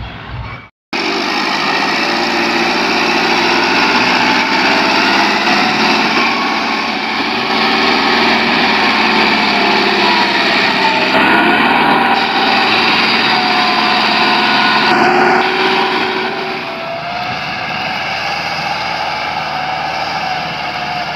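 Tractor diesel engine running loud and steady, cutting in suddenly about a second in.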